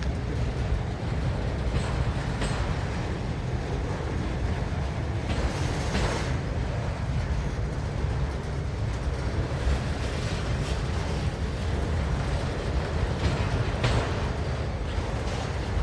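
Freight train rolling past with a steady low rumble, its wheels clicking over rail joints in pairs every few seconds.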